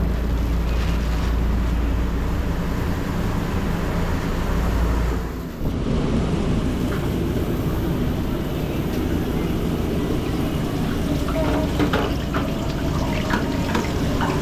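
Steady running noise of food truck kitchen equipment with a low rumble, which drops out briefly about five seconds in; a few light clicks and clatters near the end.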